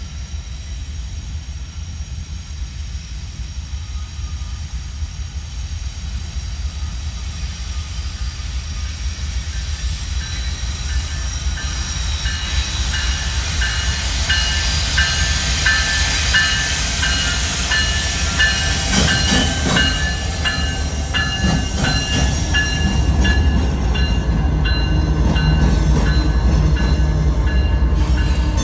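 Freight train approaching, its rumble growing steadily louder. A repeating pulsed tone comes in about halfway through, and wheels clack over rail joints in the second half as the cars pass.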